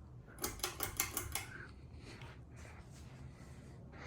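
A quick rattling run of about eight light clicks in about a second, then faint scattered handling noise.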